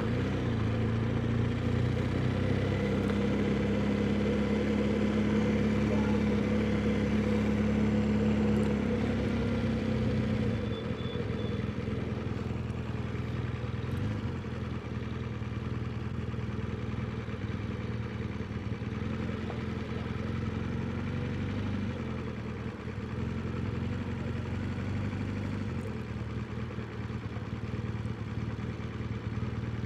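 BMW R1200GS boxer-twin engine running steadily at low revs, a little quieter from about ten seconds in.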